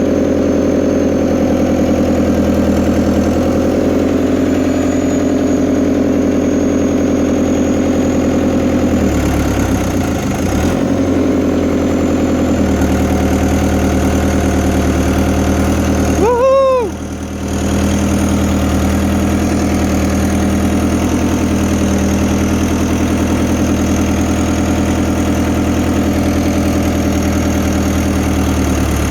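Fiat Hitachi FH150 excavator's diesel engine running steadily, its note changing for a few seconds about a third of the way in. About two thirds through, a short loud whine rises and falls once.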